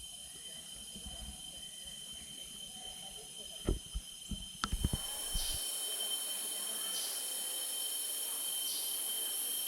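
Rainforest insects calling in steady high-pitched tones, with short rasping pulses repeating every second or two. A handful of sharp knocks come a little before the middle.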